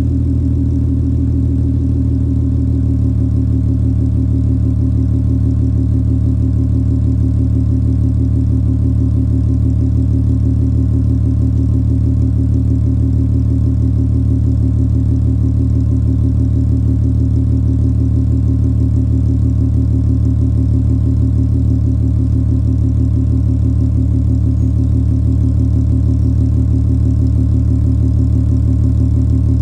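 2003 Volkswagen Jetta GLI (MK4) engine idling steadily after a cold start.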